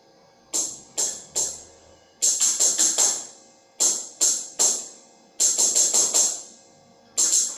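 Tambourine (pandero) played in a rhythmic pattern: a few single jingling strikes, then quick runs of rapid jingling hits, repeating.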